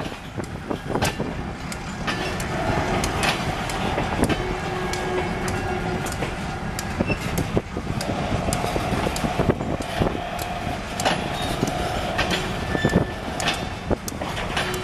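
Covered hopper cars of a freight train rolling past at speed, wheels clicking over the rail joints, with a steady ringing tone from the wheels that comes and goes.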